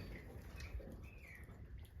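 European goldfinches giving a few short chirps, over a steady low rumble.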